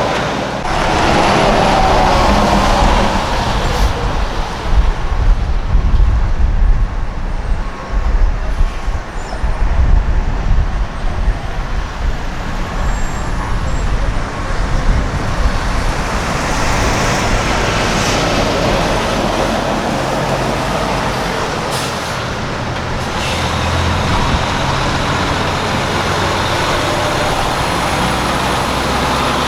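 Semi-truck diesel engines running as the trucks move past, loudest and most uneven in the first half, with a couple of short hisses about two-thirds of the way through and a steadier engine sound near the end.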